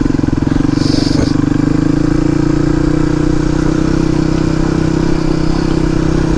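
Suzuki DR250S single-cylinder four-stroke engine running steadily at an even pitch through an aftermarket Dominator R exhaust. A short hiss comes about a second in.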